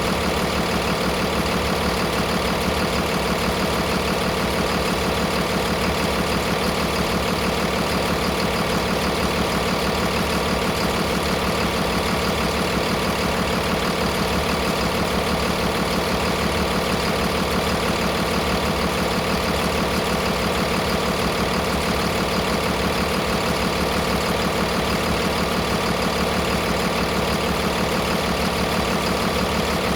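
2012 Cummins ISB6.7 inline-six turbo-diesel engine idling steadily.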